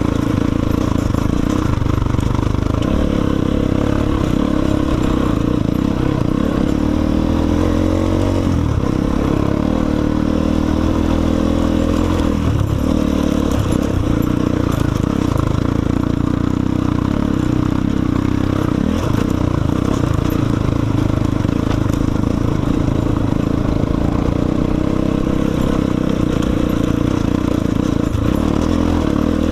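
Enduro motorcycle engine running under way on a trail ride, its pitch rising and falling as the throttle changes, most clearly about eight to ten seconds in.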